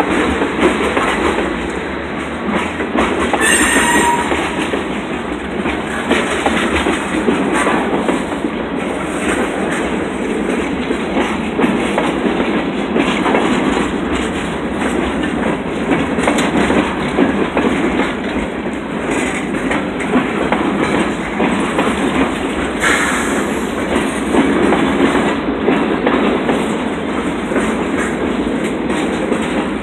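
Freight train of tank cars and boxcars rolling past close by: a steady rumble of steel wheels on rail, with the clickety-clack of the wheels over rail joints. A brief wheel squeal comes about four seconds in.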